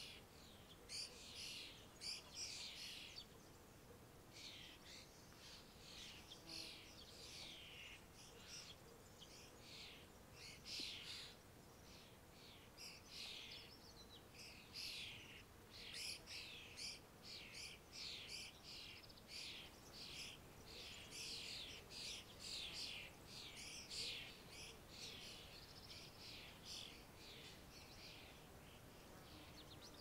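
Faint chorus of small songbirds chirping and twittering, a quick stream of short high chirps, some overlapping, thinning out near the end.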